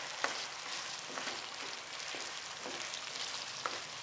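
Chicken pieces and chopped tomatoes sizzling in hot oil in a nonstick wok, while a spatula stirs them, with a few soft scrapes against the pan.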